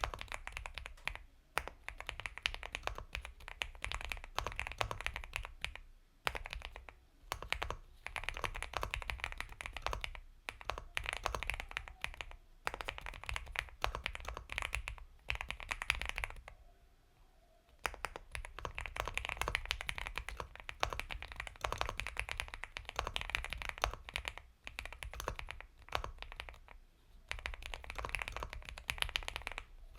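Typing on an Epomaker x Feker Galaxy 80 mechanical keyboard with Gateron Milky Yellow Pro linear switches: fast, continuous soft, creamy keystrokes. There is a short pause a little past halfway.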